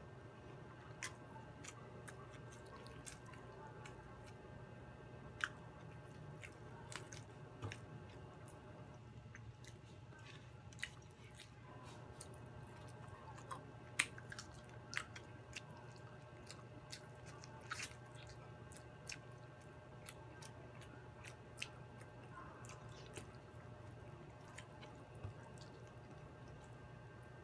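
Close-miked eating sounds of fried chicken and rice being eaten by hand: chewing, wet squishy mouth noises and scattered sharp clicks, over a steady low hum.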